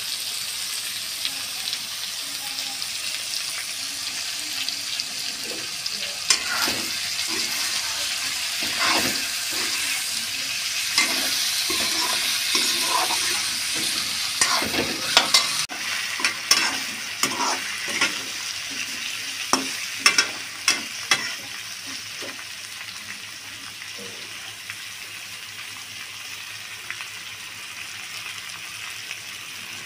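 Pork belly pieces sizzling in hot oil in a metal kadai, with a steady frying hiss. Through the middle stretch a metal spatula stirs them, scraping and clacking against the pan; the stirring eases off near the end and the sizzle goes on more quietly.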